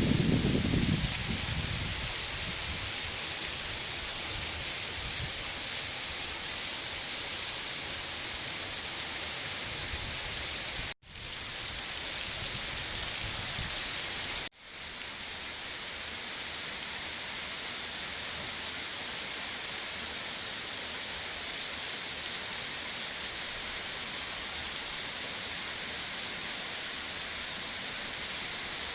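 Heavy rain falling, a steady hiss that cuts out abruptly twice, about eleven seconds in and again a few seconds later.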